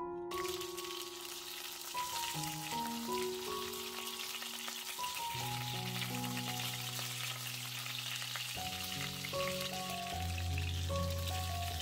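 Chicken breasts sizzling as they fry in hot fat in a nonstick pan, a dense steady hiss that cuts in a moment after the start. Background music with sustained notes plays under it.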